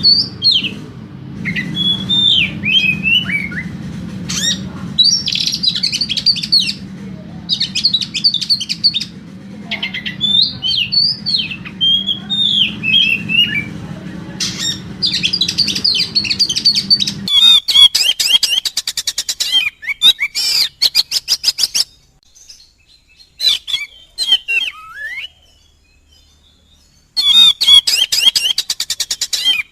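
Oriental magpie-robin (kacer) singing heated, fired-up song: quick varied whistled phrases, then from about halfway fast rattling trills, with a near-silent pause before the rattles start again near the end. A low hum underneath cuts off about halfway.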